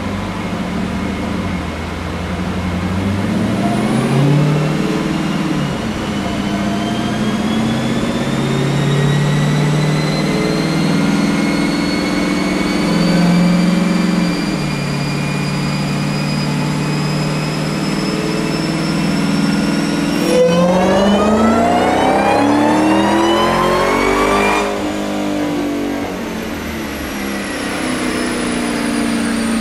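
2019 Dodge Challenger SRT's V8 running on a chassis dyno, its pitch climbing slowly as the car and rollers gather speed. A little after twenty seconds in it rises steeply for about four seconds in a full-throttle pull, then lifts off and winds down.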